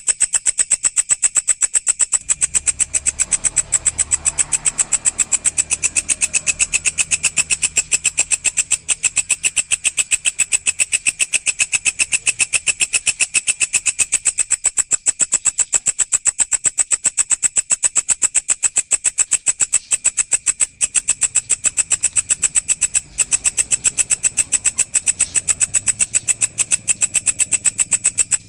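Walang, an Indonesian singing grasshopper, calling in one unbroken, rapid and even pulsed chirr, high-pitched and steady.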